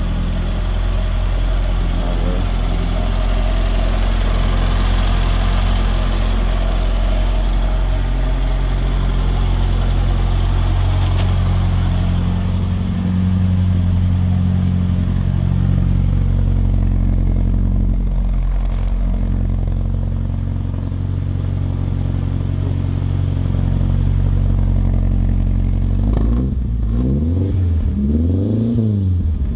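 1968 Ford Cortina 1600 GT's four-cylinder engine running steadily through its Sebring exhaust, just after starting following 40 years of standing. Near the end it is revved a few times in quick rises and falls.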